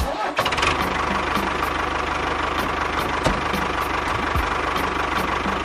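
Small motor or engine running steadily with a fast, even rattle, and two low thumps partway through.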